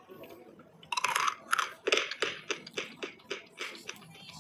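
Close-miked crunching of crispy dry clay snacks being eaten: a loud bite about a second in, then crisp chewing crunches about three a second that grow fainter toward the end.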